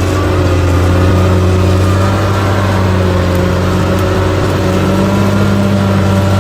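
Large diesel engine of a heavy earthmoving machine running steadily at constant speed, a low, even drone.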